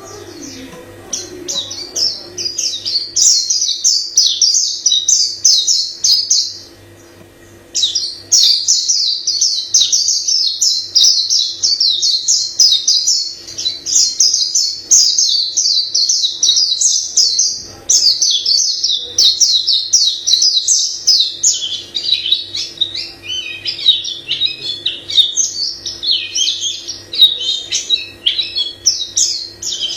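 White-eye singing a long, rapid, high-pitched warbling song of many varied phrases, with one short break about seven seconds in.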